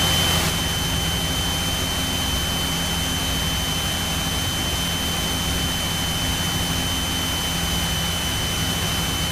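Cessna 172's piston engine idling steadily, with propeller and cabin noise, while the aircraft waits on the stand before taxi. A thin, steady high-pitched whine runs over it.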